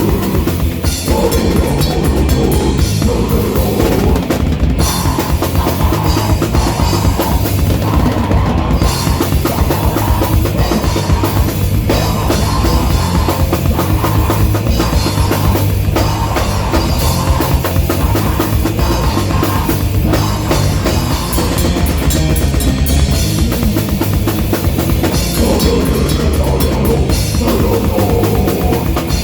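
A rock band playing live and loud. The drum kit is to the fore, with bass drum and cymbals, and the music runs on without a break.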